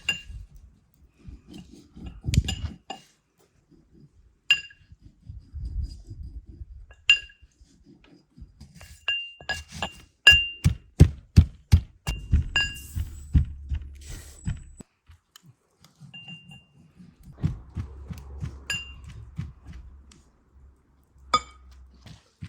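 A drinking glass clinking repeatedly against bowls as granulated sugar is measured out, a glassful and a half per bowl. Short ringing chinks mix with soft knocks and handling noise, and the chinks come thickest in the middle.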